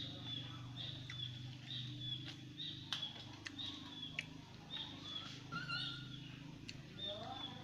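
A bird chirping over and over in short high notes, about one to two a second, over a steady low hum, with a few sharp clicks between.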